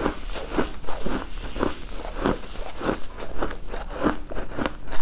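Close-miked chewing of a crunchy food: a steady run of crisp crunches, about two a second, each with sharp little cracks.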